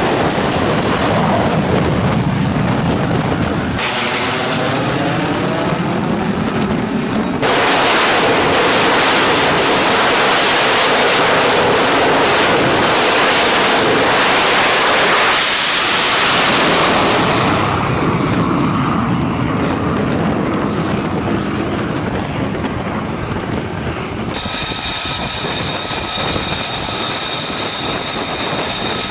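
Military jet aircraft noise across several cut-together clips. A jet passes with a sweeping, phasing rush, then there is a long loud rush of jet engine and wind, and near the end a steady high-pitched turbine whine.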